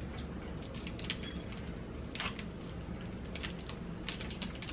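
Crunchy cookies being chewed, heard as irregular crisp crackles and clicks over a low room hum.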